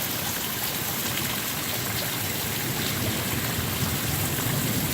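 Heavy rain pouring down in a thunderstorm, a steady even rush of water with no thunder clap.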